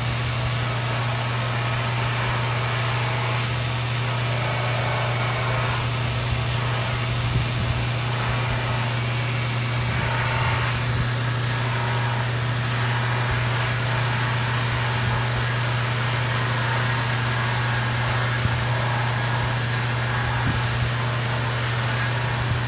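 Electric sharpening machine motor running steadily with a low hum and a hiss, while a hand-forged knife blade is sharpened on it.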